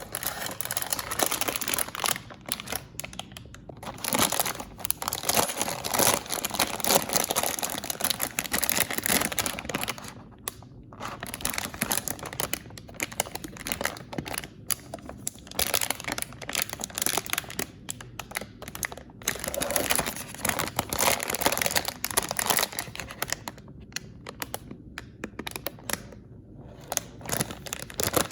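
Paper and plastic packaging being crinkled and torn open by hand, a dense run of rustling full of small sharp crackles. It starts suddenly and pauses briefly about ten seconds in and again near the end.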